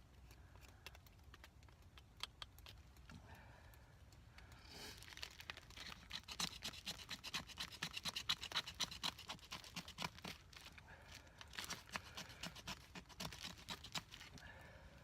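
Back of a knife scraping a stick of fatwood into fine dust and shavings for tinder: quick rasping strokes in two runs, one starting about four and a half seconds in and a shorter one around eleven seconds.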